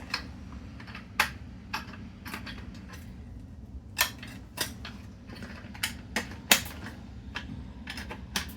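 Scattered light clicks and taps of hands handling plastic wiring connectors and cables, irregular, about a dozen in all, over a steady low hum.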